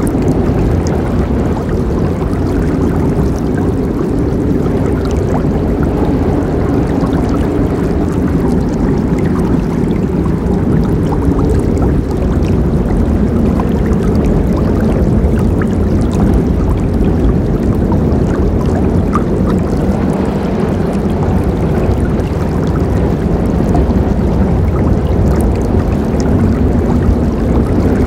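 River water rushing and gurgling over rocks in a steady, deep, unbroken flow.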